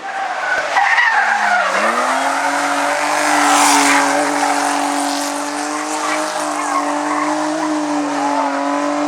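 Race car engine at high revs. Its note dips and climbs back about two seconds in, then holds nearly steady, with tyre squeal and skid noise swelling around the middle.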